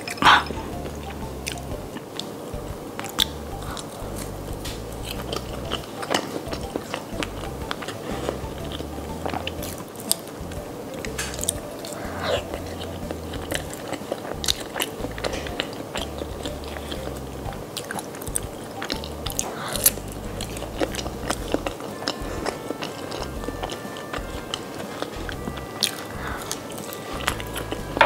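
Close-miked chewing of crispy fried food, with frequent sharp crunches and wet mouth sounds, over soft background music.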